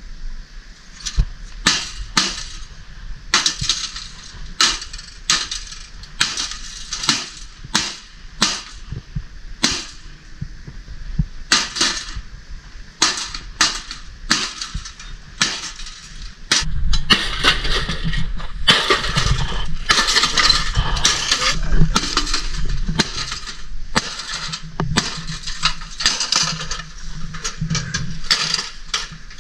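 A toaster oven being smashed: a long series of hard blows on its metal body, about one a second, that turns into louder, denser crashing and rattling about halfway through.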